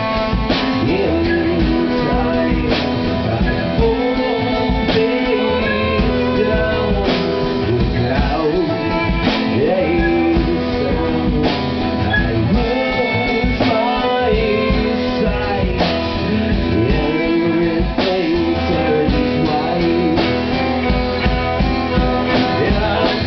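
A band playing a rock song: guitar over a drum kit, with singing.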